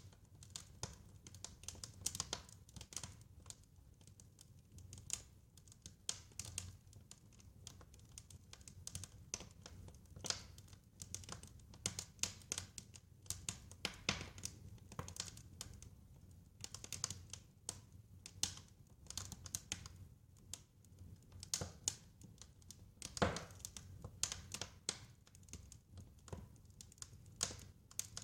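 Wood fire crackling: irregular snaps and pops over a low steady rumble, with one louder pop late on.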